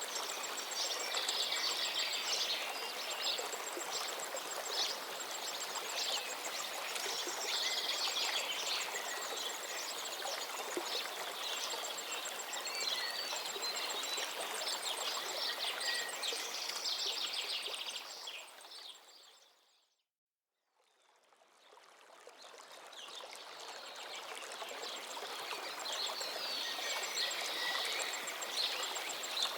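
A river's steady rush of flowing water with birds singing over it in repeated chirps. About eighteen seconds in, everything fades out to silence for a moment, then fades back in.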